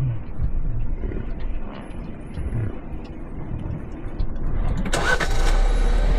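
A vehicle engine running low, then about five seconds in a sudden rush of noise that settles into a steady, louder hum.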